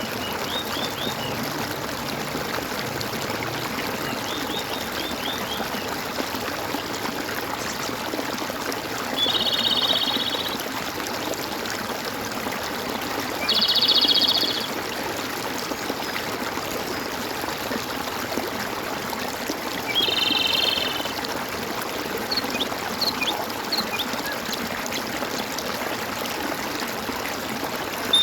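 Water gurgling and trickling steadily. Three louder rapid trilled animal calls of about a second each stand out over it, along with a few faint chirps.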